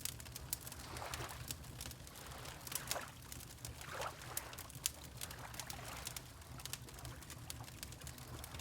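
Fireplace crackling with frequent sharp pops, over water lapping in soft swells every second or so.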